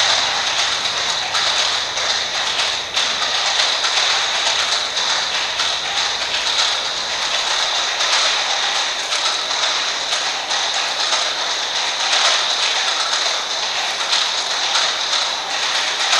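Many amplified clock mechanisms ticking together in a dense, overlapping mass of ticks, bright and sharp.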